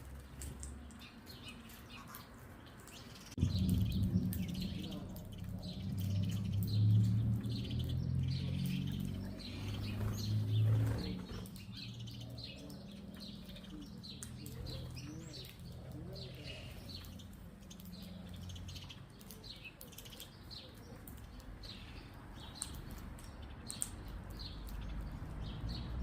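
Many small birds chirping at a feeding table, short high calls overlapping throughout. A low rumble rises suddenly about three seconds in and fades out around eleven seconds.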